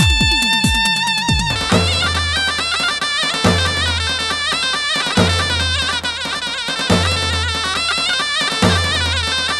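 Slow heavy halay folk dance music: a nasal zurna-style reed melody with fast wavering ornaments over deep davul-style drum beats about every second and three quarters. It opens with a quick descending drum fill.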